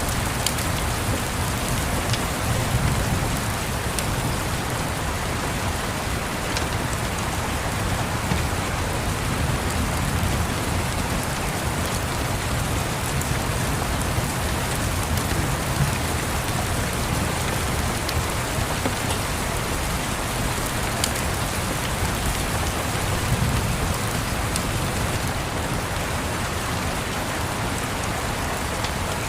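Steady rain falling and pattering, with a low rumble underneath and faint scattered crackles of a wood fire.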